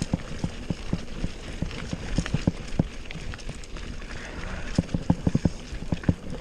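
A bicycle being ridden, with a steady rushing noise and many quick, irregular knocks and rattles that come thickest near the end.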